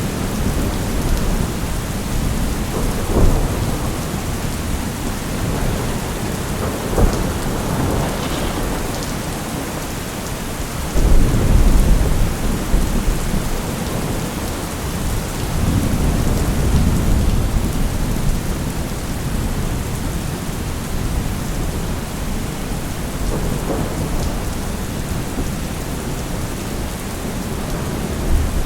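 Steady rain pouring, with low rumbles of distant thunder swelling up several times; the strongest rumble comes in suddenly about eleven seconds in.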